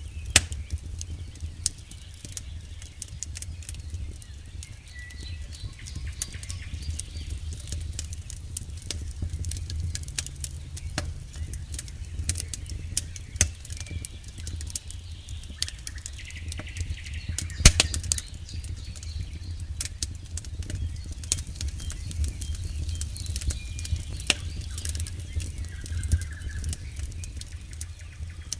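Campfire crackling: irregular sharp pops and snaps over a steady low rumble of the burning fire, with one loud pop about two-thirds of the way through.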